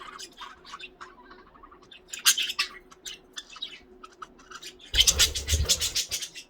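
Pet budgies (budgerigars) chirping and squawking in short, scratchy calls, a cluster of louder squawks about two seconds in. About five seconds in, a dense scratchy rustling burst lasts a little over a second.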